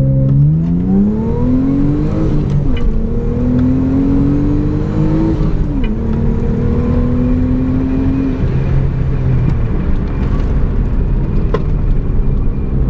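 Mitsubishi Galant VR-4's turbocharged engine, held at steady revs with brake and throttle together to pre-spool the turbo (brake boosting), then pulling hard under full throttle from a rolling start. The engine note climbs and falls back twice at the upshifts, about two and a half seconds in and about three seconds later. The engine note fades near the end as the driver lifts off, leaving tyre and wind noise.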